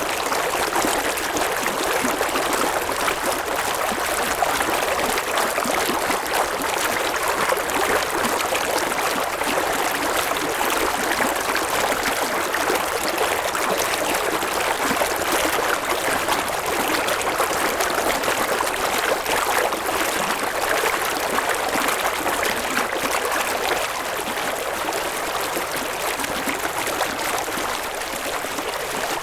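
A river's water flowing and babbling over stones, a steady rushing noise.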